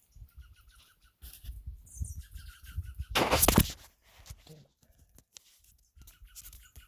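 Small birds calling in short chirps, with a brief loud rustle about three seconds in.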